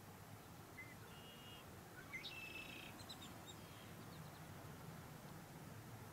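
Faint songbird calls: a short whistle and then a brief buzzy, rising phrase in the first half, over a quiet low background hum.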